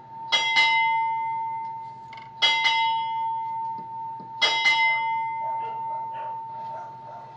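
Ship's bell struck in pairs: three double strikes about two seconds apart, each pair ringing on with a clear sustained tone. The paired ringing is the naval honors that mark a dignitary's arrival aboard.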